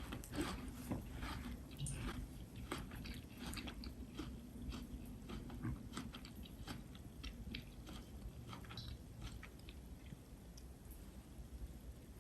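Faint, irregular small clicks and taps, several a second, over a low room hum.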